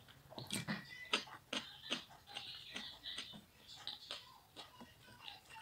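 Close-up eating sounds: chewing a mouthful of rice and lamb heart and liver, with wet mouth clicks and smacks at about two a second.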